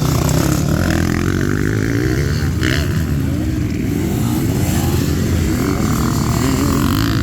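Motocross bike engines running, the pitch rising and falling as the throttle opens and closes.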